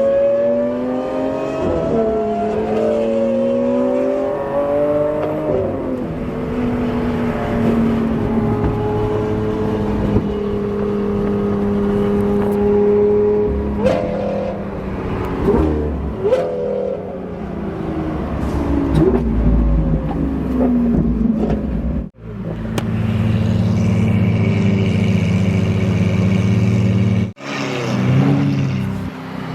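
Sports car engines accelerating hard on the highway: the pitch climbs and drops through the gears, with quick rev jumps. The sound cuts off abruptly twice between clips.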